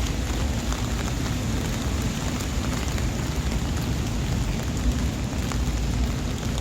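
Steady rainfall, a continuous hiss with scattered ticks of individual drops, over a low rumble.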